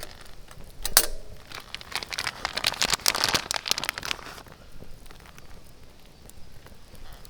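Rustling and crinkling with sharp crackles and snaps: one loud snap about a second in, a dense run of crackling for the next few seconds, then quieter scattered clicks.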